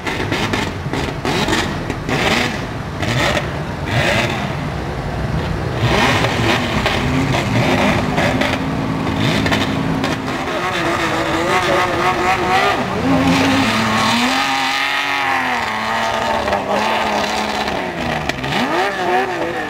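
Off-road vehicle's engine revving hard under load as it climbs a sand hill, its pitch rising and falling with the revs. Crowd voices underneath.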